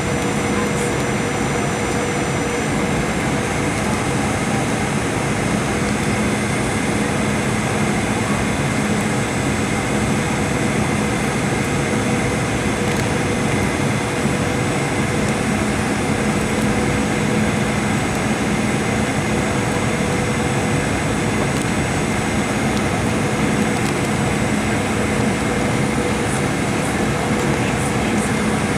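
Steady cabin noise inside a Boeing 737-800 airliner in flight: the rumble of its CFM56 jet engines and airflow, with a steady whine over it. The high whine shifts in pitch about three seconds in, as the engine power changes.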